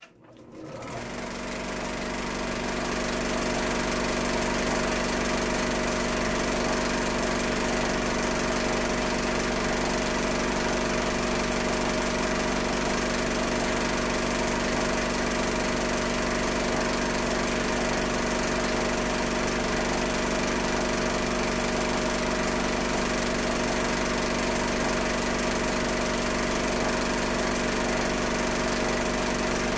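Old film projector running steadily, a mechanical whirr with a constant motor hum, fading in over the first few seconds.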